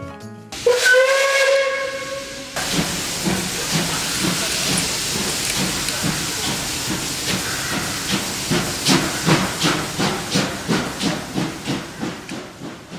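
Steam locomotive whistle blowing for about two seconds, then the engine chuffing and hissing steam in a steady beat of about three puffs a second, fading near the end.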